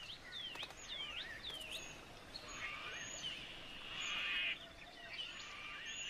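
Birds calling in creekside bush: a run of short, sharp, sweeping chirps about two a second, then a buzzing trill that swells about halfway through and returns near the end.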